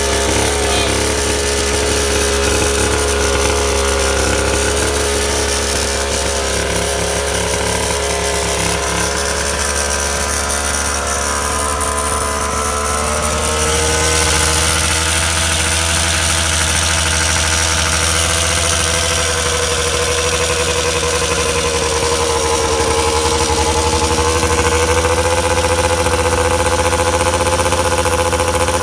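Orion dirt bike engine running at a steady idle, its pitch wavering slightly and settling a little higher about halfway through.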